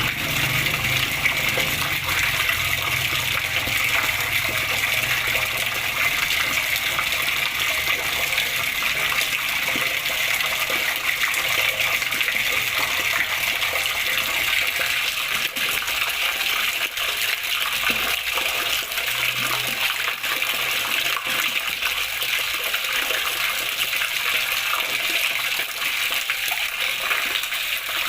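Running water splashing and babbling steadily, an even rushing with most of its sound in the upper-middle range.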